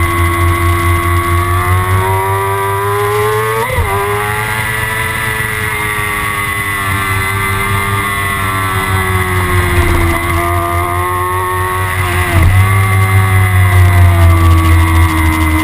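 Kawasaki ZX-6R inline-four sport bike engine running at high revs, its pitch slowly falling and rising, with two sharp breaks in pitch about four seconds in and twelve seconds in, and louder after the second one.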